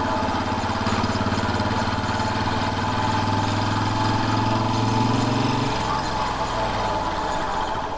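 Royal Enfield Bullet 500's single-cylinder engine running steadily under way; its low note changes suddenly about six seconds in, as with a change of throttle or gear.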